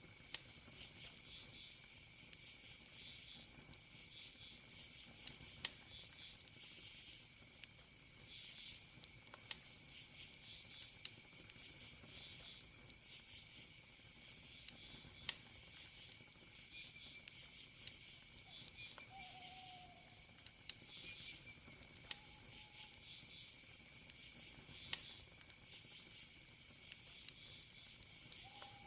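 Campfire wood crackling with scattered sharp pops, over a steady high cricket trill and pulsing insect chirps. A few short falling whistled notes come in about two-thirds of the way through and again at the end.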